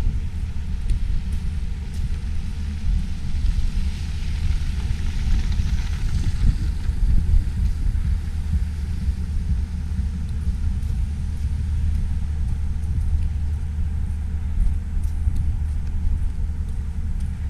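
Snowstorm wind buffeting the microphone as a steady low rumble, with a swell of hissing traffic noise from the road about four to seven seconds in.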